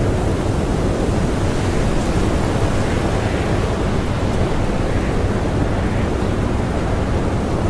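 Blizzard wind blowing hard and steadily: a dense, even rushing noise heaviest in the low end, with no single gusts standing out.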